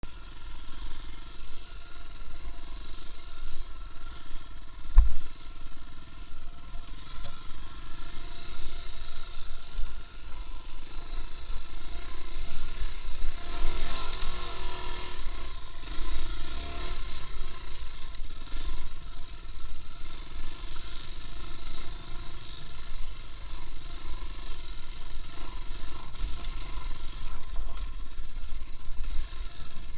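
A vehicle on the move: a steady engine drone and road rumble, with one sharp knock about five seconds in.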